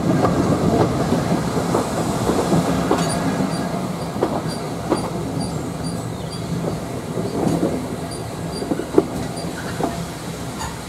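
Steam-hauled heritage train coach running along the track, a steady rumble with irregular clicks of the wheels over rail joints and faint high squeaks now and then, gradually getting quieter.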